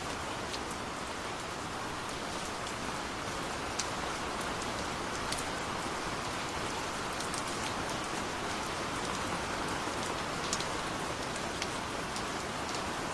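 Steady gentle rain, with individual raindrops ticking sharply now and then.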